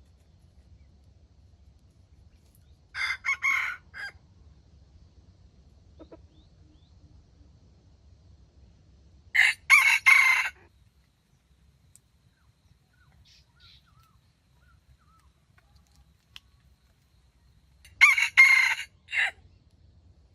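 Junglefowl rooster crowing three times, each crow short at about a second, several seconds apart.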